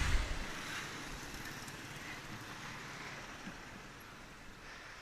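Wind and road noise rushing over an action camera's microphone while riding a BMX bicycle, with a loud low buffet at the start that dies away, then a steady rush that slowly fades.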